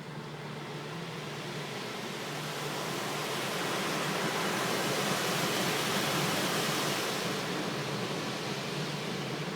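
Automatic car wash equipment making a rushing noise that builds to a peak about five to seven seconds in, then eases off a little.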